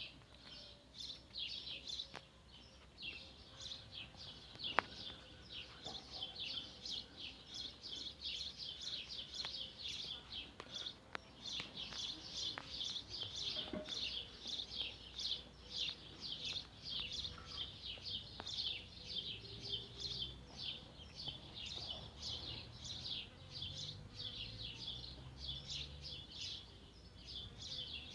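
Small birds chirping rapidly and continuously, many short high chirps a second, with a few faint clicks.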